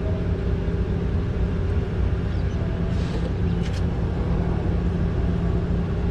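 Steady low hum of a running machine, with a few light metallic clicks about three seconds in from a socket on the valve cover bolts being started by hand.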